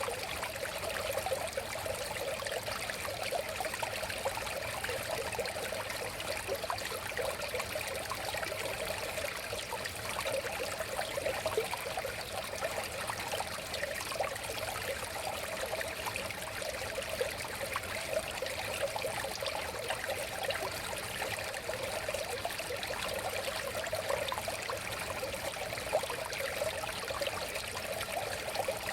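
River water flowing and trickling steadily, a continuous splashing babble without pauses.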